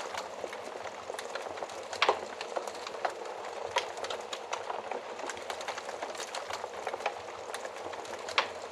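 Wood fire burning in an oven, crackling and hissing with a steady run of small pops and a few sharper, louder pops: one about two seconds in, one near four seconds, and one near the end.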